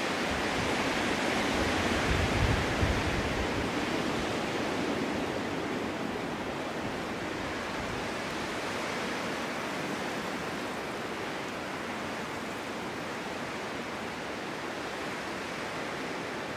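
Snowstorm wind blowing steadily, a broad rushing noise that swells into a stronger gust with a low rumble about two to three seconds in, then settles back.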